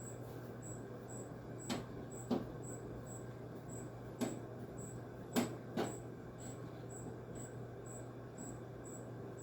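Hand tool clicking and knocking against the metal parts and bolts of a window air conditioner's case as it is taken apart: five sharp knocks, two of them close together a little past the middle. A steady low hum and a faint high chirp repeating about twice a second run underneath.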